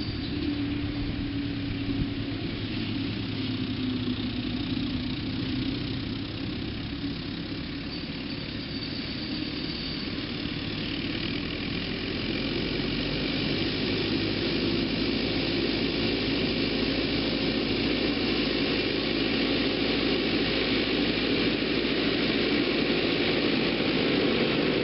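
Tractor diesel engine running steadily, growing louder after about twelve seconds.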